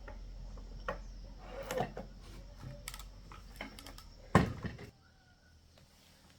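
Scattered clicks and knocks of small parts and tools being handled, the loudest a sharp knock about four seconds in, over a low hum that cuts off suddenly soon after.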